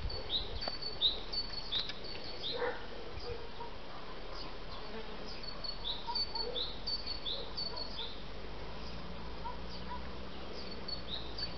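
Small birds chirping: short, high, falling notes repeated in spells, about two a second.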